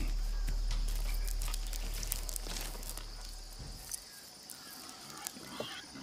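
Outdoor ambience: a steady high insect buzz with scattered light rustles and ticks, under a low drone that fades out about halfway through.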